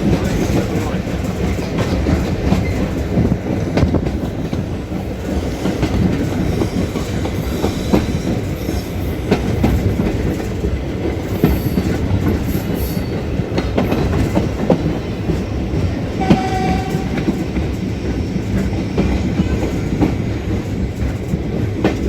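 Railway carriage running along the track: a steady rumble of the wheels with a rapid clickety-clack over the rail joints. A short, high pitched tone sounds once about three-quarters of the way through.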